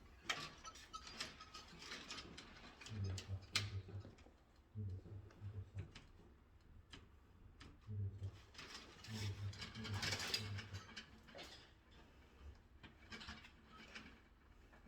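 Small mechanical clicks and ratcheting from hands-on wiring work, with several short bursts of a low hum partway through.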